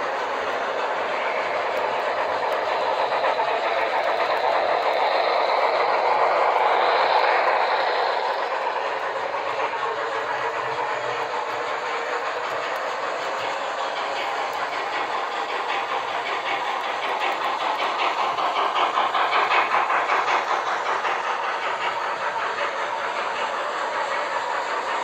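HO scale model steam locomotive and train running on the track: a steady rattling run with rapid fine clicking that swells louder twice, about a quarter of the way in and again past the three-quarter mark.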